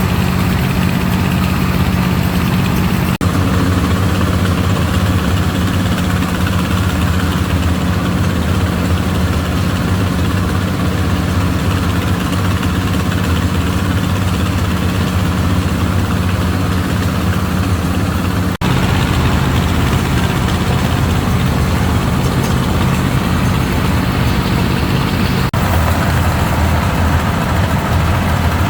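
A motor engine running steadily with a low hum. It breaks off abruptly and resumes three times, each time with a slightly different pitch pattern.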